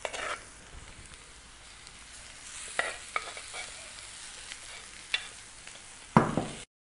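Onions, cabbage and ground masala sizzling in oil in a clay kadai as cooked minced mutton is tipped in from a clay pot and scraped out with a ladle, with a few light knocks of the ladle against the clay. A louder knock comes near the end.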